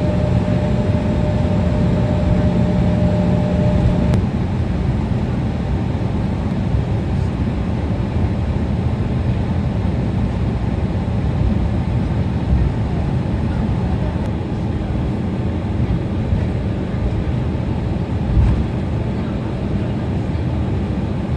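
Steady low rumble of an airliner cabin after landing, with a steady hum that stops about four seconds in.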